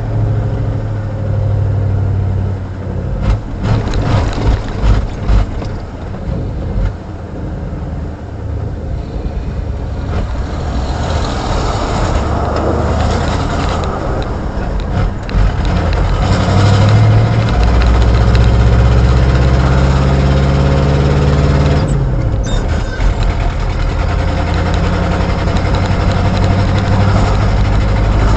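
Pickup truck engine running while driving, with a loud exhaust leak and the engine down on power. It pulses unevenly a few seconds in, then settles into a steady drone whose pitch drops briefly about 22 seconds in.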